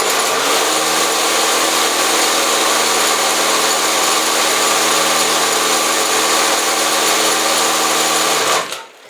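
Home-made fan driven by a blender's electric motor, running: it spins up quickly, runs as a loud, steady whir with a hiss, then cuts off near the end.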